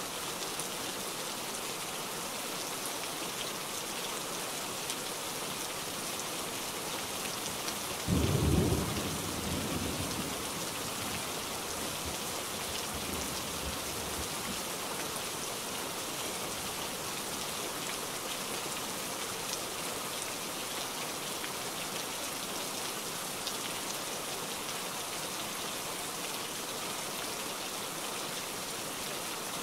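Steady rain, with a single sudden crack of thunder about eight seconds in that rumbles low and dies away over the next five seconds or so.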